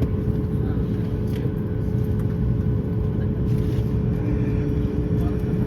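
Steady low rumble inside a Boeing 737-9 MAX cabin, with a constant hum running through it.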